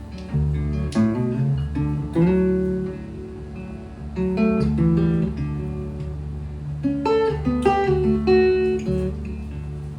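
Solo acoustic guitar playing an instrumental passage between sung verses: picked notes and strummed chords.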